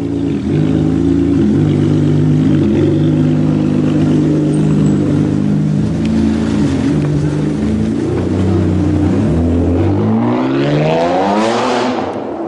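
Supercar engine running loud at low revs with small steps in pitch, then accelerating hard from about ten seconds in, its pitch rising steeply before breaking off near the end.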